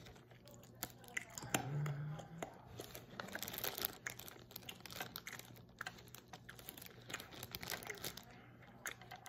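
Close-up chewing of a chewy SweeTarts candy: irregular soft mouth clicks, with a brief low hum of the voice about two seconds in.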